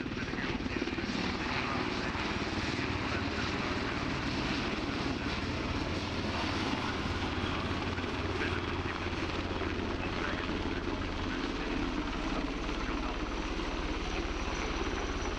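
Helicopter rotors and turbine engines running steadily, a low rotor drone under a continuous rush of engine noise. A faint high whine grows slightly stronger near the end.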